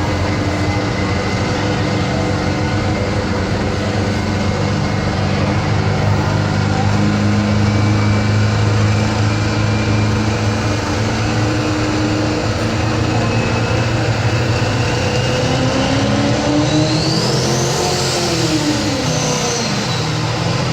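Massey Ferguson 1150 Light Pro Stock pulling tractor's turbocharged diesel engine running hard under load while pulling the sled. A whine climbs higher and higher, and near the end the engine note swings up and then drops away as the pull ends.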